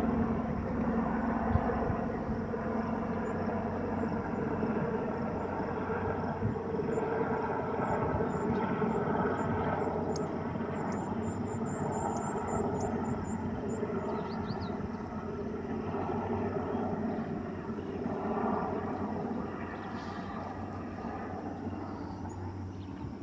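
Helicopter engine and rotor running steadily, easing off slightly over the last few seconds.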